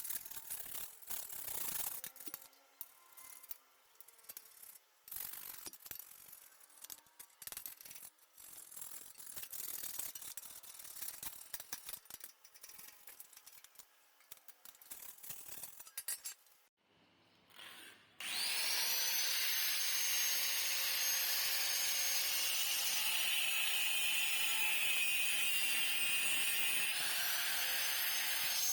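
Irregular sharp knocks and taps on metal for the first half. After a short gap a power tool starts and runs steadily with a high whine that drops and picks up again near the end.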